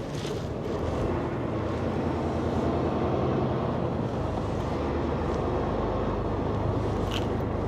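Semi truck running, a steady low rumble heard from inside the cab, with a couple of brief clicks near the end.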